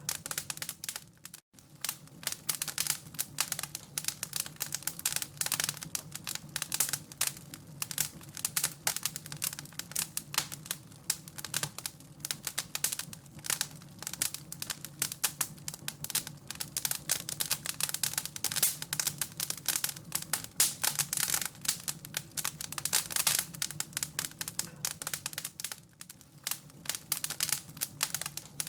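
Wood fire crackling and popping in a fireplace: dense, irregular snaps over a low steady hum, with a split-second break about a second and a half in.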